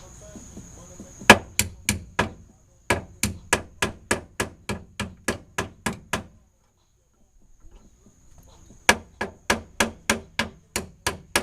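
Hammer blows in three rapid runs of about four strikes a second, with a short pause between runs.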